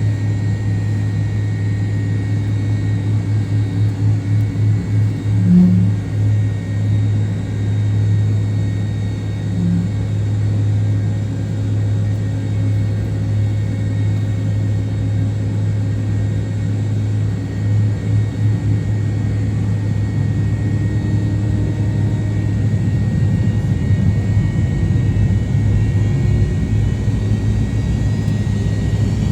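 MD-88 jet engines, rear-mounted Pratt & Whitney JT8D turbofans, heard from inside the passenger cabin as a steady low drone with a thin high whine. The drone pulses in places and grows slightly louder toward the end.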